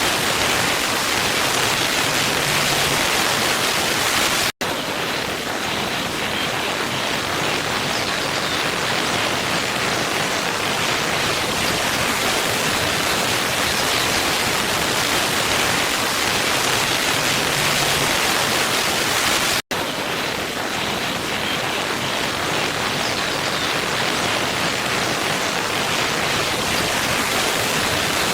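Steady, even rush of a waterfall: falling water hissing across the whole range. It cuts out for an instant twice, about fifteen seconds apart, where the looped recording restarts.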